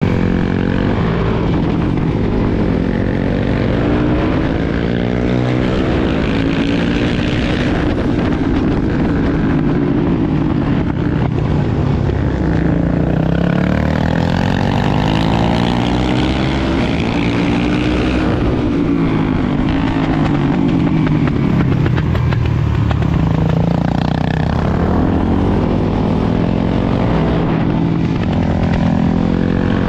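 Supermoto motorcycle engine heard from on board while lapping a track. The revs rise and fall again and again as the bike accelerates and brakes through a run of corners.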